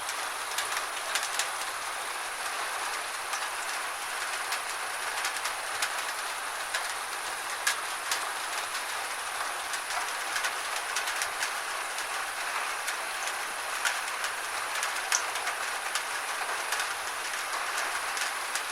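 Steady gentle rain: an even hiss with many scattered, irregular ticks of drops striking a surface.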